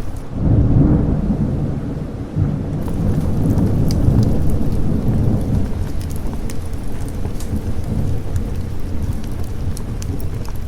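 A rolling thunderclap during steady rain. It breaks about half a second in, swells again a couple of seconds later, and rumbles low for several seconds before easing off under the rain.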